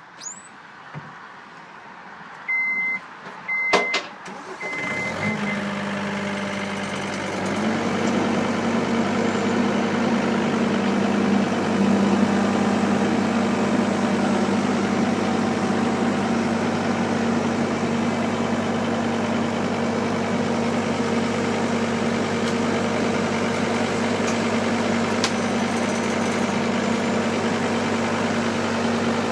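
Loader's engine starting about five seconds in, after two short electronic beeps, then running steadily, picking up slightly a few seconds later. A couple of sharp clicks come before the beeps.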